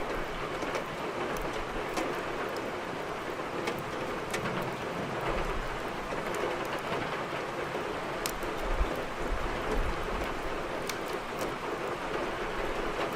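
Steady rain with scattered sharp pops and crackles of burning firewood, and a low rumble now and then.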